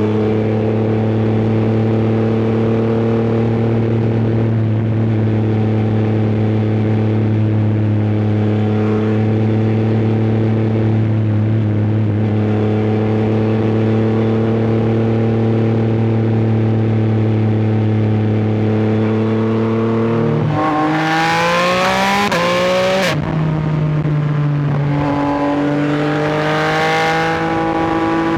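Yamaha R9's three-cylinder engine from the rider's seat, running at steady revs for about twenty seconds. It then accelerates hard with a rising pitch, drops in pitch at an upshift, and climbs again near the end, with rushing wind noise during the pull.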